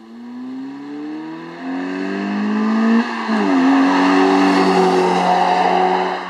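Car exhaust fitted with a prototype Suruga Speed dual centre pipe and a loop-sound muffler, the engine accelerating with its note rising in pitch. About three seconds in, the pitch drops sharply at a gear change, and the engine then pulls on loudly.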